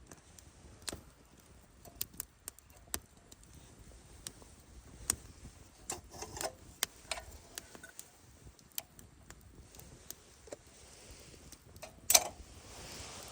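Wood campfire crackling, with scattered sharp pops and one loud crack near the end.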